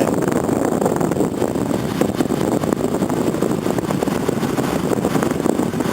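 Old car's engine running on held throttle, not running smoothly, with the air-conditioning compressor and blower just switched on.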